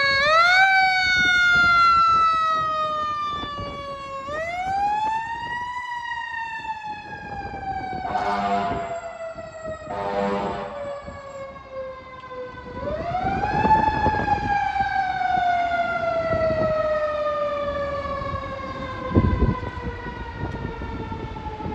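Fire engine siren wailing: it winds up quickly and falls slowly in pitch, three times over, with two short air-horn blasts about 8 and 10 seconds in.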